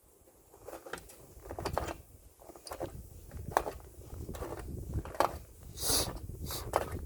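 A hiker's footsteps on a mountain trail: uneven steps, clicks and scrapes about once a second, with a sharper scuffing scrape near the end, over a low rumble of wind on the microphone.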